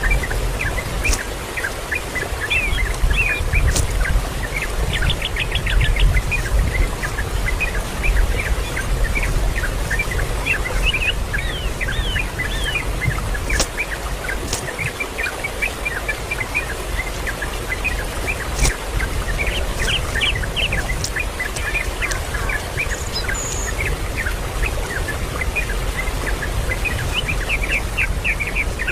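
Many small birds chirping, a dense, continuous chatter of short, high chirps, some rising in quick sweeps, over a low rumble.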